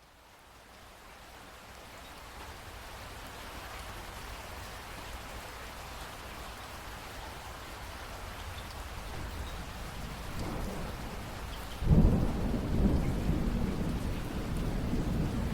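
Steady rain fading in, then a rumble of thunder that builds and breaks out loudly about twelve seconds in, rolling on under the rain.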